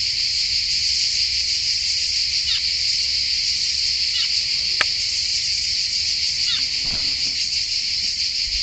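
Steady, high-pitched insect chorus, with three short falling chirps and one sharp click a little past the middle.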